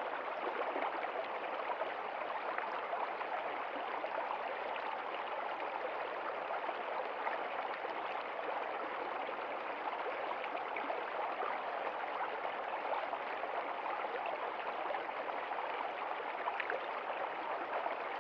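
Running water of a stream, a steady unbroken rush with fine splashing texture.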